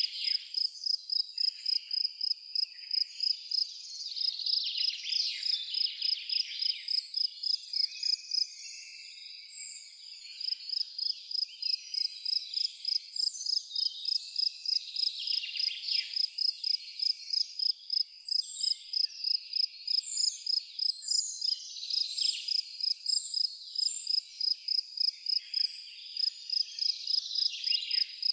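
A cricket chirping steadily in a high, even pulse of about three chirps a second, pausing for a couple of seconds about nine seconds in before starting again. Behind it is a chorus of other insects, with a few short bird calls past the midpoint.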